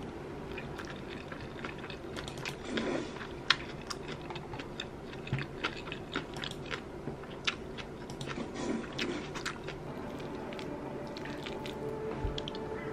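A person chewing a mouthful of rice close to the microphone, with scattered short clicks and taps at irregular intervals, including a wooden spoon knocking against a ceramic bowl.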